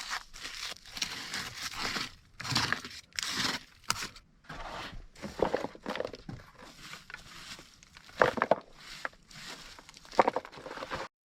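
Close, irregular rustling, crinkling and crunching of something being handled, with a few sharper knocks about eight and ten seconds in.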